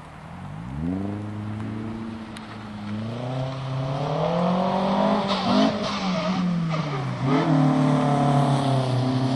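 Nissan 240SX engine revving up hard about half a second in, then held high with revs rising and falling as the car is slid on wet pavement. A rush of tyre noise from wheelspin comes about five to six seconds in.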